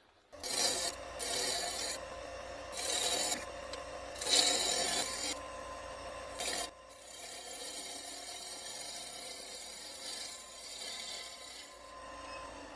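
Turning tool cutting a spinning basswood blank on a wood lathe in several short passes of hissing, scraping cuts. The cutting stops about seven seconds in, and the lathe runs on with a quieter steady hum and whine.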